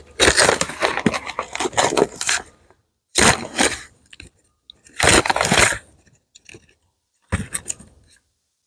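Crinkling and tearing of a plastic packet of SuperDFM probiotic powder in four separate bursts, the longest about two seconds.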